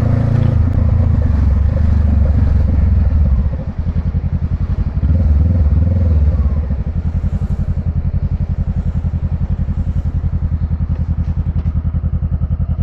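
Motorcycle engine running under throttle while riding, easing off about three and a half seconds in and picking up briefly again, then settling to an even low idle pulse for the second half.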